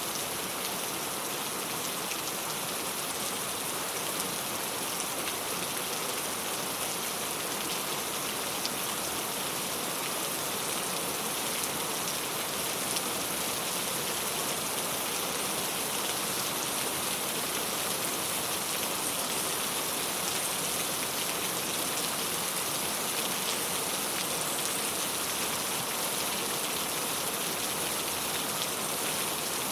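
Steady rain falling on a clay-tile roof, an even patter of drops.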